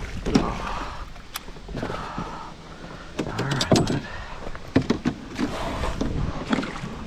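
Scattered clicks, knocks and rustles of fishing gear and a landed fish being handled in a small boat.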